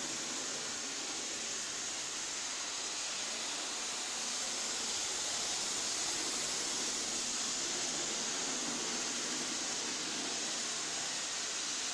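A steady, even hiss, strongest in the high range, with no distinct clicks or tones.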